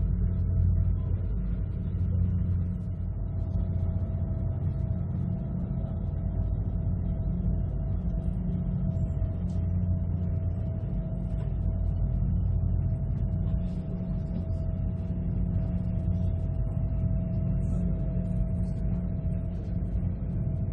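Sightseeing cruise boat's engine running steadily under way: a low, even drone with a faint constant whine above it.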